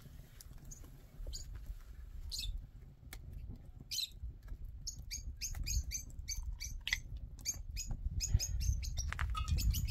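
Birds chirping: short high chirps, a few at first and then coming thick and fast from about five seconds in, over a low rumble.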